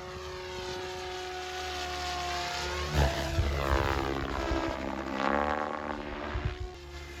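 SAB Goblin 580 electric RC helicopter in flight: a steady high motor and rotor whine that bends down and back up in pitch from about three seconds in as it manoeuvres.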